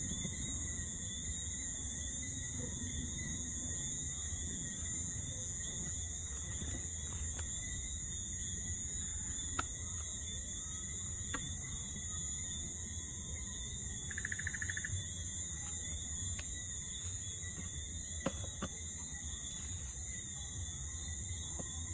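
Night insects, crickets, trilling steadily in several high-pitched layers. A few faint clicks sound through it, and there is a short pulsing call about two-thirds of the way through.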